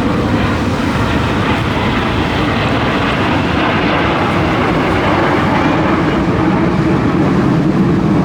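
An aircraft flying by, heard as steady, loud engine noise.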